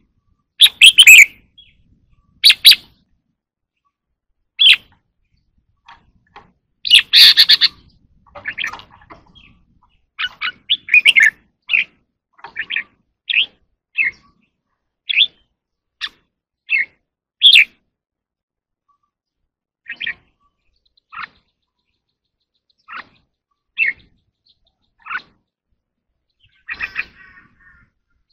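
Red-whiskered bulbul singing: short, sharp whistled notes and chirpy phrases with gaps between them, denser in the first half and sparser toward the end.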